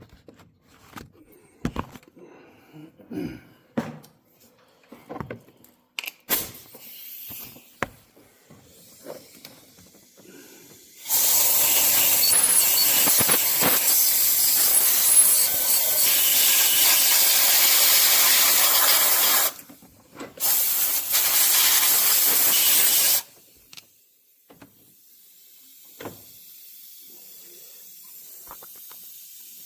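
Compressed-air blow gun blasting metal shavings out of a bolt hole in an engine's timing chain cover: one long blast of about eight seconds, then a shorter one of about three seconds. Scattered clicks and knocks of handling come before the blasts.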